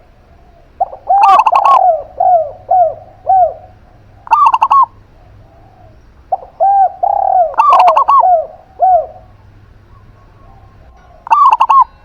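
A zebra dove and a spotted dove cooing in turn. Four loud, short, sharp phrases are interleaved with runs of softer, lower, arched coos repeated about twice a second.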